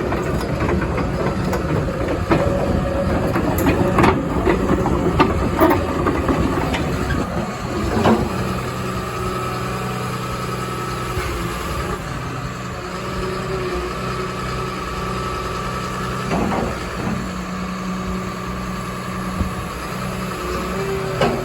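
Caterpillar 320E hydraulic excavator's diesel engine running, with clanks and knocks over the first eight seconds or so, then a steady hum with a constant whine.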